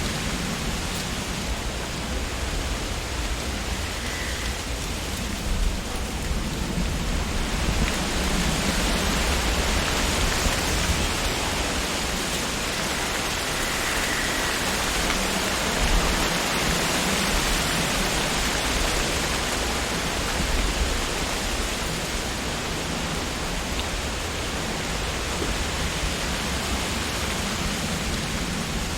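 Wind blowing through tree leaves, a steady rustling hiss that swells in a gust about a third of the way in and eases off again, with a low rumble of wind underneath.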